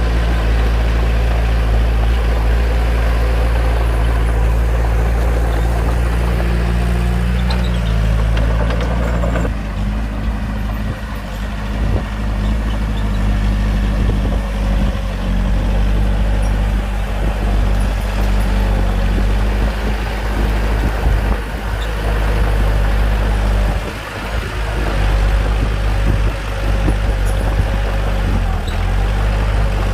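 Bulldozer's diesel engine running steadily at work, a low drone whose note changes about nine seconds in.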